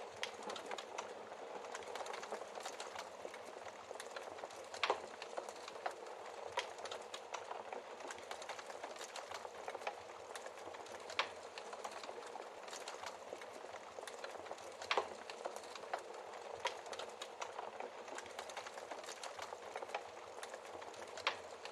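Wood fire crackling in a fireplace: a steady hiss of burning with frequent small crackles and a few louder pops.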